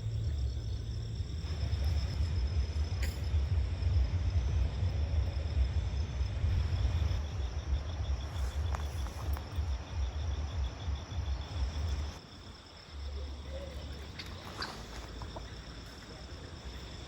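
Insects chirping in a steady, fast pulsing trill, over a low rumble that cuts off abruptly about twelve seconds in, with a few faint clicks.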